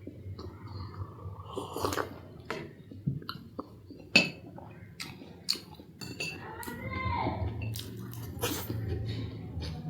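Close-up eating sounds: chewing and mouth sounds, with sharp clinks of cutlery and dishes scattered through.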